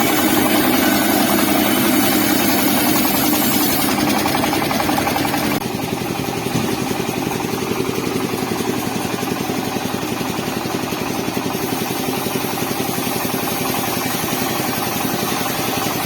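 Car engine powering a homemade log sawmill, running steadily with a fast, even beat. It drops slightly in level and brightness about five and a half seconds in.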